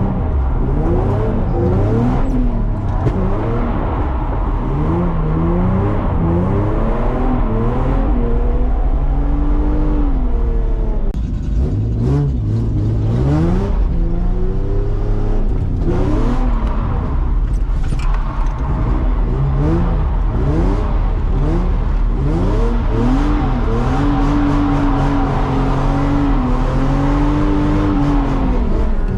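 Nissan 350Z's V6 engine being driven hard while drifting, the revs sweeping up and falling back again and again.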